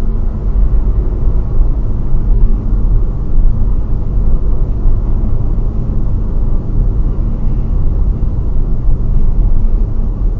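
Steady low rumble of a car driving: engine and road noise as picked up by a dashcam.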